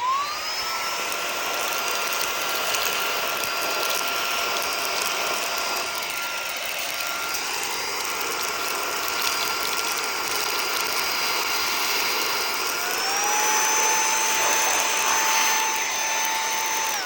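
Cordless handheld vacuum cleaner running with a steady high motor whine as it sucks up coffee beans, which rattle up through the nozzle. About 13 s in the whine changes pitch and gets slightly louder, then the motor cuts off at the end.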